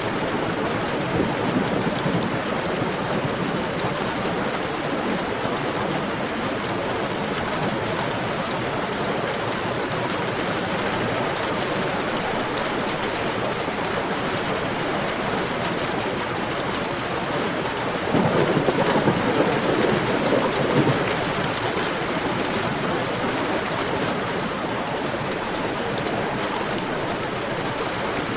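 Heavy, steady rain, with a rumble of thunder about two-thirds of the way in that lasts about three seconds.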